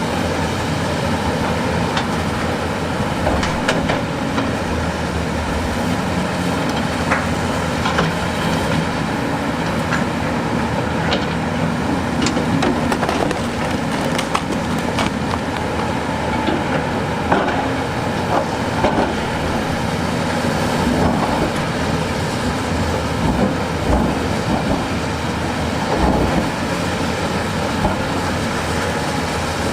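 Heavy diesel construction machinery running steadily, with frequent knocks and clatter of rock and stone throughout and a few louder clunks in the second half.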